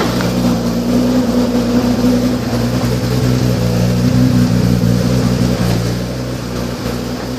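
The 2010 Nissan GT-R's twin-turbo V6 idling steadily. It is running without its mass airflow sensors, which the owner says makes it run a little rough.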